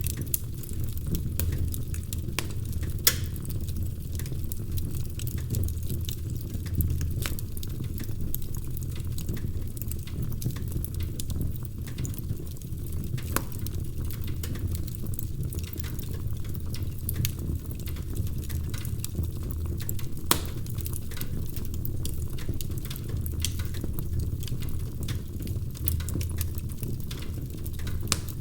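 Wood fire in a fireplace crackling: a steady low rumble of flames with frequent sharp pops and snaps scattered irregularly throughout.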